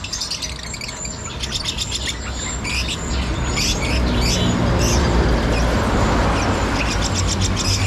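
Many caged songbirds in a bird shop chirping and calling at once, with short, fast-repeated high notes and trills. A low rumble underneath grows louder about halfway through.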